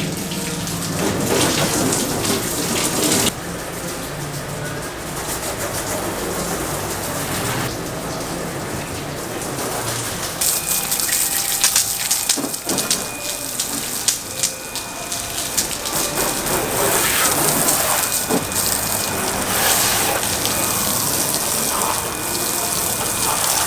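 Running water splashing and gushing steadily for a hand car wash, turning hissier about ten seconds in.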